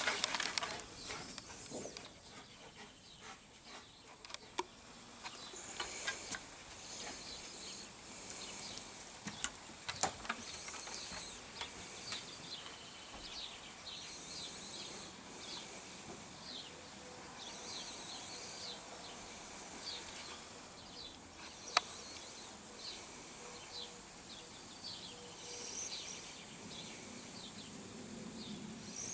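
Small birds chirping and twittering faintly in the background, in short high calls repeated throughout, with a couple of sharp clicks about ten and twenty-two seconds in.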